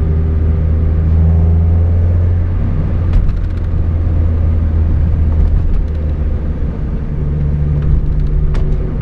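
Mazda MX-5 Miata's differential whining at a steady cruising speed over the low drone of the drivetrain. The whine comes from chewed-up ring and pinion gears. It fades for a few seconds in the middle and comes back near the end.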